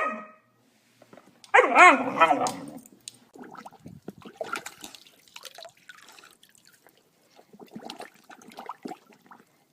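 A dog gives one wavering, pitched howl-like call about a second and a half in, lasting just over a second, followed by faint scattered small sounds.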